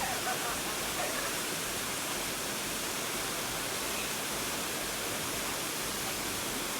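Waterfall: steady rushing of falling water, an even noise that holds throughout.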